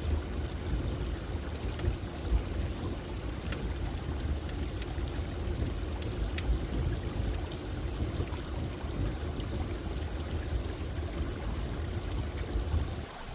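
Running water flowing steadily, mixed with a campfire whose crackles come through as a few scattered faint pops.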